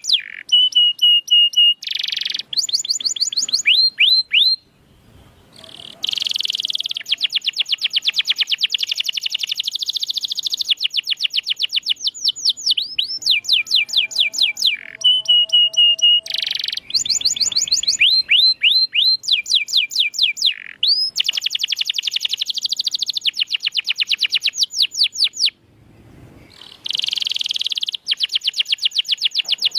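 Domestic canary singing a long, fast song of rapid trills built from quickly repeated down-slurred notes, with two short pauses, about five seconds in and again near the end.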